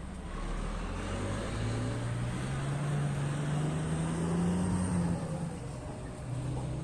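Heavy mining machine's diesel engine revving, its pitch climbing steadily for a few seconds and then dropping back near the end.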